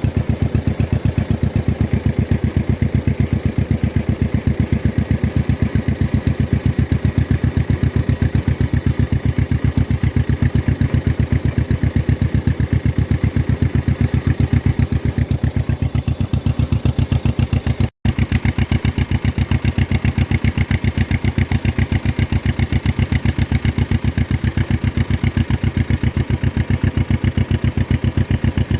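1953 John Deere 40's two-cylinder engine running at a steady speed, its exhaust making an even, rapid popping beat. The sound drops out for a split second about eighteen seconds in.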